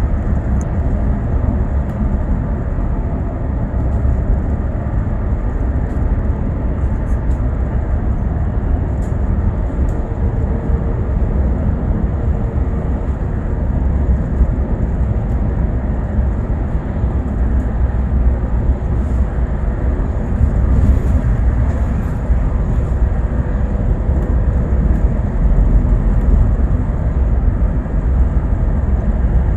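Steady rumble of a moving bus heard from inside the passenger cabin: low engine drone and road noise, with a few faint rattles and clicks.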